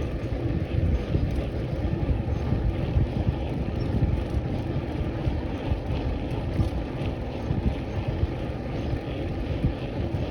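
Wind rushing and buffeting on the microphone of a cyclist riding along, a steady fluctuating rush strongest in the lows.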